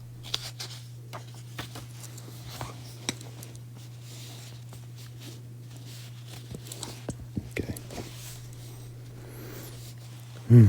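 A steady low electrical hum with scattered faint clicks and rustles of small handling sounds.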